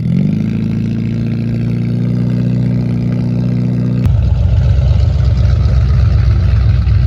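A vehicle engine rises briefly in pitch and then runs at a steady speed; about four seconds in, the sound changes abruptly to a lower, rougher engine sound.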